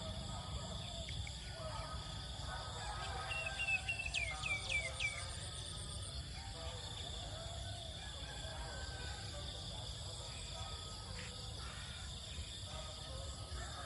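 Rural rice-field morning ambience: a steady high insect drone, with a bird giving a run of about five quick downward-sliding notes about four seconds in. Fainter calls and a low rumble sit underneath.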